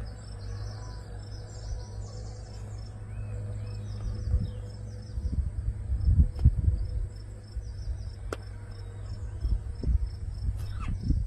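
Insects chirping in quick, evenly repeated high pulses, over a steady low hum and a few low knocks and rumbles.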